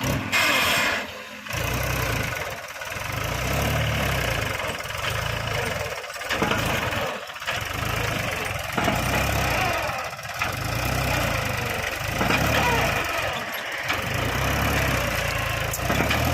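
Mahindra 265 tractor's diesel engine running, its low rumble swelling and dropping away about every second and a half.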